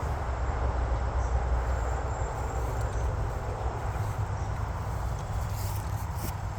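Wind rumbling and buffeting on the microphone outdoors, with faint insects trilling in the vegetation and a little rustling near the end.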